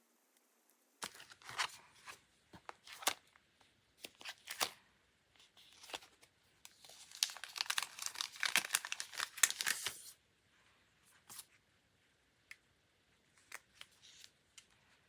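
Paper being crinkled and torn by hand in short bursts, densest in a longer stretch about seven to ten seconds in, then only a few light ticks.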